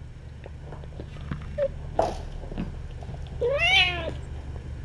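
A cat meows once about three and a half seconds in, a single call that rises and then falls in pitch. A steady low hum and a few small clicks run underneath.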